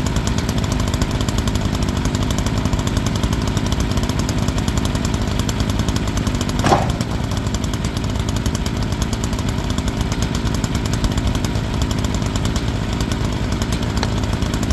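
Wood-Mizer portable sawmill's engine running steadily, with a brief sharp knock about halfway through.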